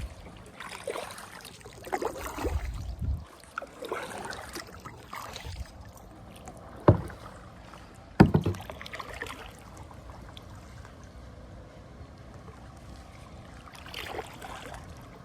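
Kayak paddle strokes swishing and dipping through the water, several in the first five seconds and another near the end. Two sharp knocks come about seven and eight seconds in.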